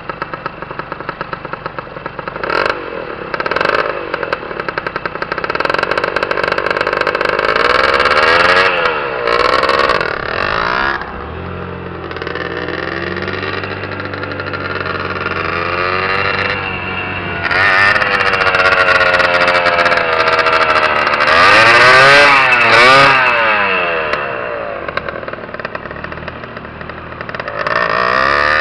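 Tuned Honda MT5 two-stroke engine, bored out to 65cc, revving up and down as the bike is ridden. Its pitch rises and falls several times, with a steadier, quieter stretch in the middle.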